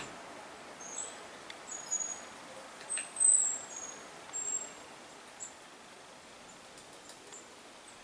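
Thin, high-pitched chirps of small birds, a dozen or so short notes scattered through, the loudest about three seconds in, with a few faint taps over a steady outdoor hiss.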